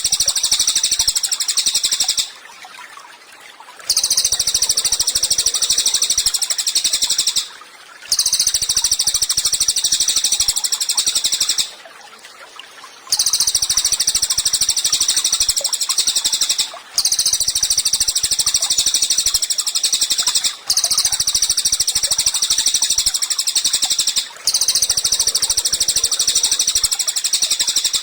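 Cililin songbird singing long, high-pitched phrases of very rapid chattering notes, each phrase lasting three to four seconds, with short pauses between them.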